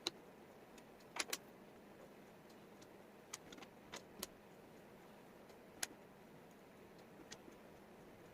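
Wooden jigsaw puzzle pieces clicking and tapping as they are handled and set down, with sharp clicks at uneven intervals over a faint hiss, including a quick pair about a second in.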